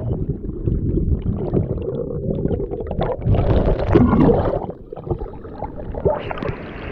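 Muffled low rumble and gurgling of rushing waterfall water, with little treble, easing somewhat after about five seconds.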